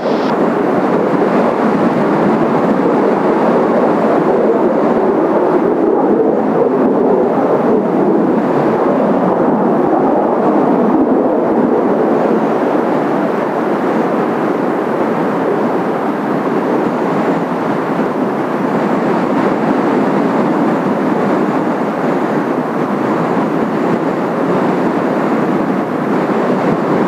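Jet noise from Kawasaki T-4 jet trainers' turbofan engines during a low-angle Cuban takeoff: a steady rushing roar with no distinct tones, a little louder in the first dozen seconds, then easing slightly.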